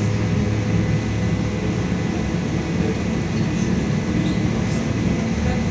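Interior sound of a LiAZ-5280 trolleybus with a DK-213 traction motor, running: a steady low hum over an even rumble, with a faint high steady whine.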